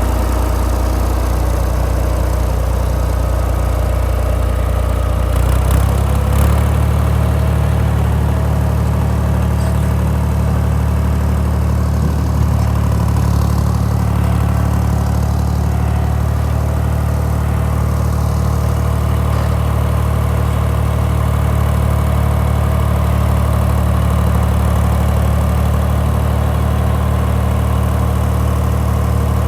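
Ford 3930 tractor's three-cylinder diesel engine running steadily, first at a low idle, then stepping up to a higher steady speed about six seconds in as the throttle is raised.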